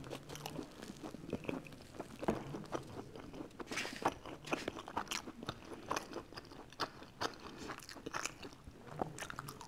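Close-miked eating: biting and chewing crusty bread, with irregular crisp crunches and wet mouth clicks.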